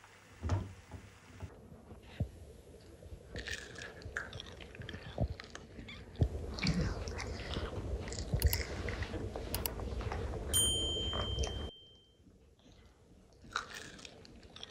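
A child biting into and chewing crispy French fries up close, with repeated short crunches. A brief high ringing tone sounds about ten seconds in.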